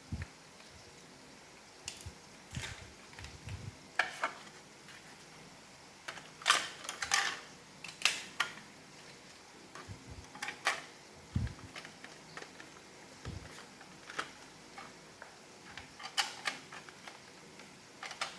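Plastic parts of an iRobot Roomba robot vacuum being handled and fitted together during reassembly: scattered clicks and knocks at irregular intervals, the loudest cluster about six to eight seconds in.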